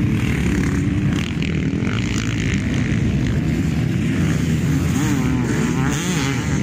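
Motocross bikes' engines racing on the track, their pitch rising and falling as the riders work the throttle.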